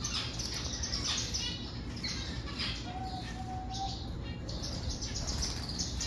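Small cage birds chirping over and over in quick short bursts. A short steady lower note sounds for about a second, about three seconds in, over a low steady rumble.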